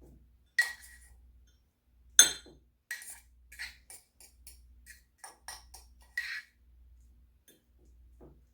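A spoon clinking and tapping against a small bowl while crumbly crisp topping is spooned onto the apples: a sharp clink with a brief ring, a louder knock about two seconds in, then a run of lighter taps and scrapes.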